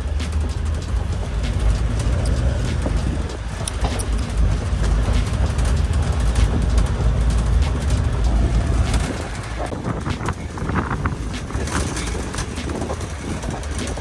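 Vehicle running: a loud, steady low rumble that eases off about nine seconds in, with a few scattered clicks.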